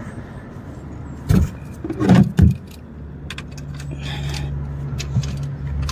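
Metal clinks and a few knocks from tools being handled at the oil drain plug under a car. A steady low hum starts about three seconds in and slowly grows louder.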